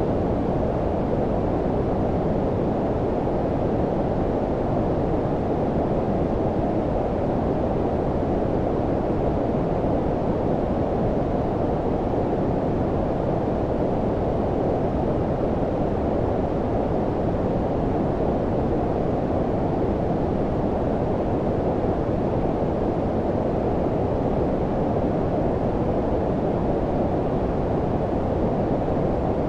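Steady generated low-pitched noise of the brown-noise kind: a deep, even rushing hiss with the high end cut away, unchanging, with no tones or events in it.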